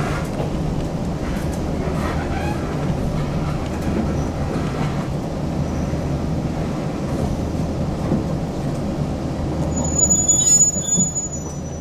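Toyama Chiho Railway electric train heard from inside the car, its motors and wheels running with a steady low rumble. About ten seconds in comes a loud high-pitched brake squeal lasting about a second as the train slows into a station.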